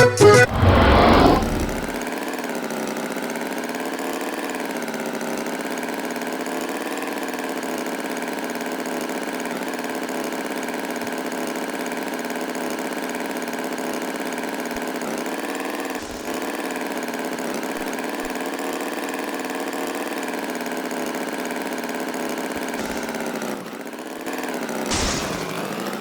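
A tractor engine idling steadily with a gently wavering pitch. A brief louder sound cuts in near the end.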